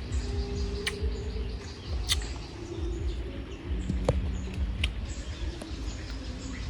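Cashews being chewed: a few sharp crunching clicks at irregular spacing, over a steady low rumble.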